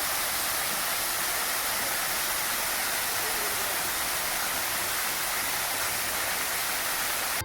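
Water pouring steadily down a garden waterfall, an even rushing hiss that cuts off abruptly at the end.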